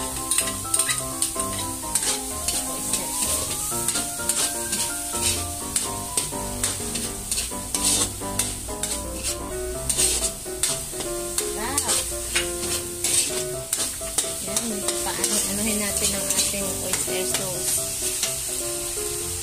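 Ground pork sizzling in a metal wok while a metal spatula stirs and scrapes it, with frequent sharp clicks of the spatula against the pan. Background music runs underneath.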